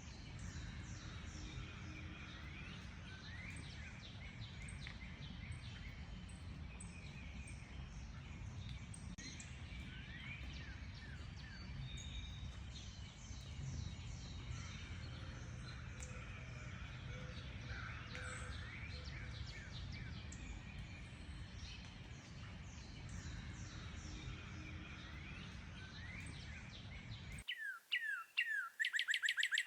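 Several songbirds singing and chirping, with many short whistled and sweeping notes, over a steady low background rumble. Near the end the sound cuts abruptly to a single louder, closer bird giving rapid repeated trilled notes, with the rumble gone.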